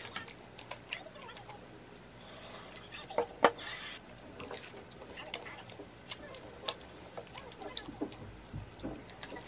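Someone eating a toast topped with blueberries and almonds: scattered crunches and small clicks of biting and chewing, the sharpest and loudest crunch about three and a half seconds in.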